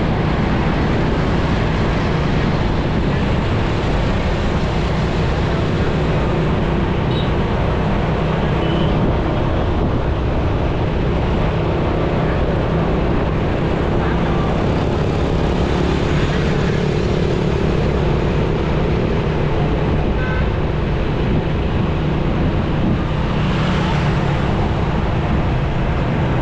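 Motorcycle running steadily while being ridden through busy city traffic: a constant engine hum under a dense wash of road and traffic noise.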